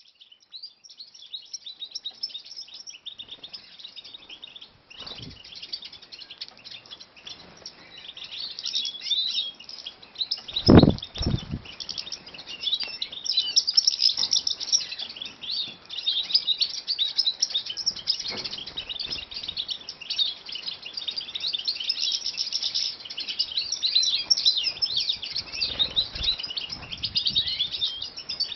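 Captive finches, goldfinches among them, twittering and chirping continuously in quick, high, overlapping notes. A pair of dull thumps about ten seconds in, with a few fainter knocks now and then.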